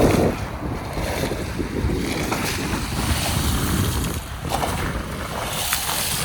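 Wind buffeting the microphone, with sea waves washing at the shore.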